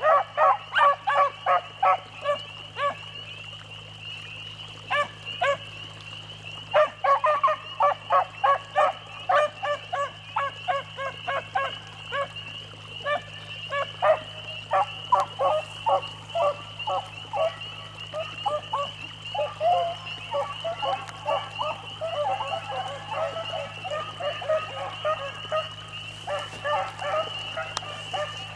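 Pack of beagles baying on a rabbit's trail: rapid, overlapping yelps that break off a few seconds in, pick up again about five seconds in, and thin out toward the end.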